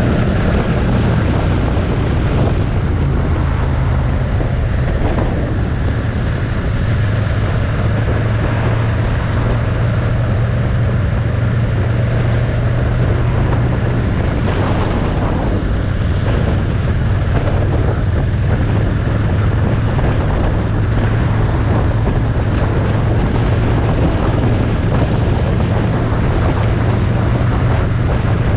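Motorcycle engine running at a steady cruising speed, a constant low drone, under heavy wind rush on the microphone.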